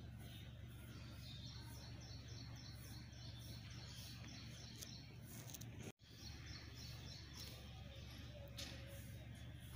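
Small birds chirping in quick repeated runs over a faint, steady low hum of outdoor background noise; the sound drops out for an instant about six seconds in.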